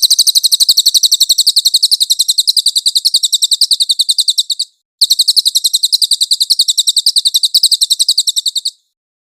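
Cililin bird singing a high, rapid trill of sharp repeated notes, about ten a second. It breaks briefly a little before halfway, resumes, and stops shortly before the end.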